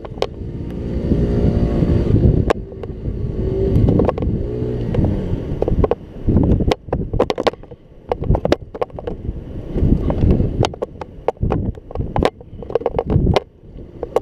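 Scooter engine revving up and down under way, with wind on the microphone. In the second half the engine drops back and a rapid run of sharp knocks and clatters takes over.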